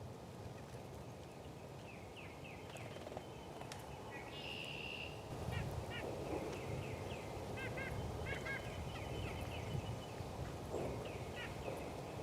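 Small woodland songbirds calling around a feeder: scattered short chirps and call notes, some in quick pairs and triplets, with one longer buzzy call about four seconds in.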